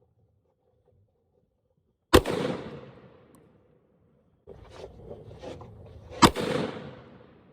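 Two shots from a Ruger Super Blackhawk .44 Magnum single-action revolver, about four seconds apart, each ringing out and fading over about a second. Between them there is lower noise with a few faint clicks.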